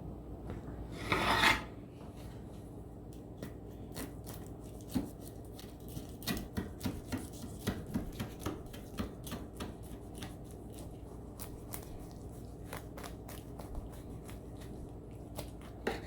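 A sharp scrape about a second in, then a long run of light rasping scrapes and clicks, typical of a blade cutting through a freshly baked pizza's crisp crust.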